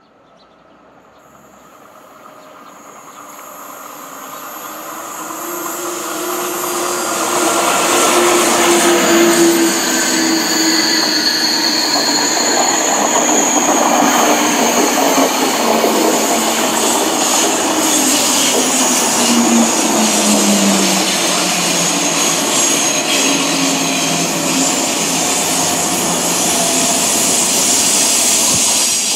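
TGV high-speed trainset running past on curved track: its wheel and running noise builds from faint to loud over the first eight seconds, then holds steady, with a whine that slides slowly down in pitch and a steady high-pitched squeal from the wheels.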